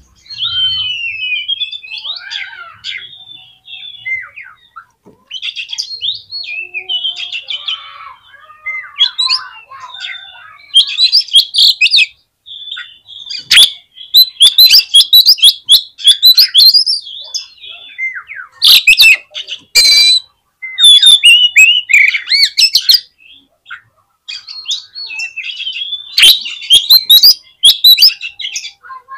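Oriental magpie-robin singing a rich, varied song of whistles and sweeping notes. It is broken by loud, harsh rasping bursts, several of them around the middle and again near the end.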